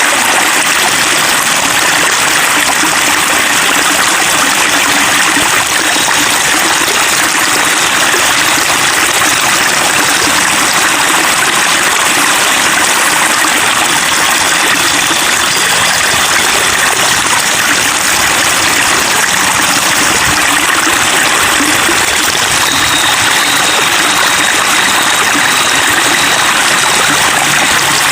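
Flowing water babbling steadily, a constant rushing splash with no breaks.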